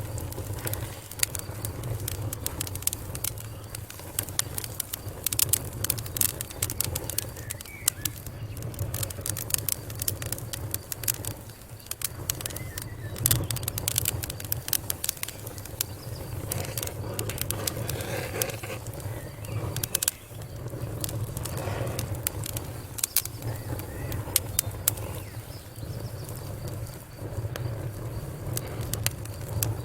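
Fire crackling: irregular sharp pops and snaps, some in quick clusters, over a steady low rumble.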